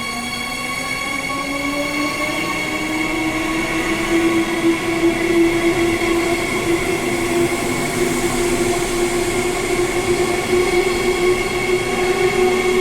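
Perth suburban electric train running past the platform, its traction motors whining: the whine rises in pitch over the first few seconds as the train gathers speed, then holds steady.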